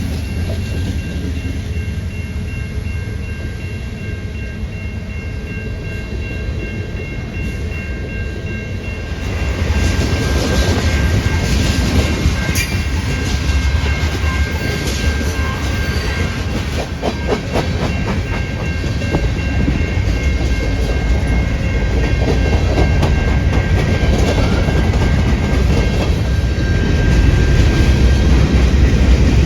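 A train passing: a deep rumble with wheels clacking over the rail joints, getting louder about nine seconds in and staying loud.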